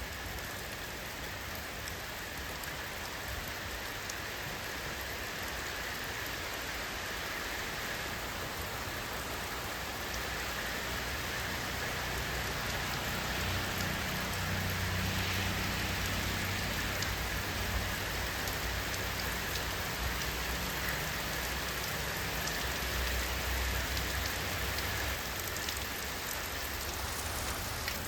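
Steady rain falling, a dense even hiss of drops on surfaces, with a low rumble swelling through the middle and easing off near the end.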